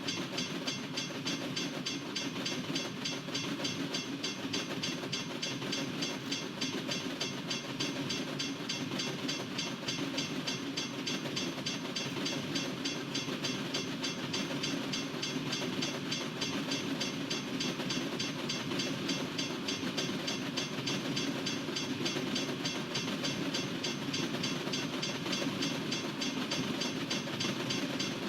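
Freight train rolling steadily past a railroad crossing, its cars running by with a constant rumble and wheel-on-rail noise.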